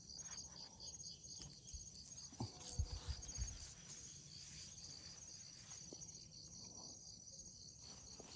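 Insects chirping in a steady, high-pitched, rapidly pulsing chorus, with a few soft low knocks and rustles from handling about three seconds in.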